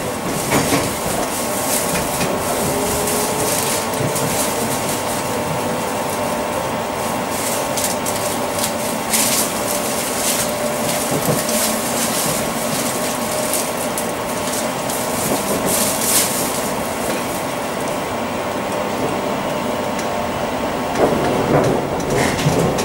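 Class 345 electric train running on the line: a steady rumble of wheels and rail with scattered clicks and clacks, steady tones near the top of the hum, and a motor whine that rises in pitch over the first several seconds as the train gathers speed.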